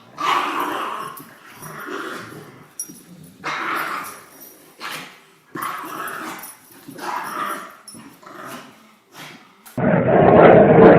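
A dog growling in play while tugging, in repeated growls of about a second each. Near the end it cuts abruptly to a louder, muffled sound.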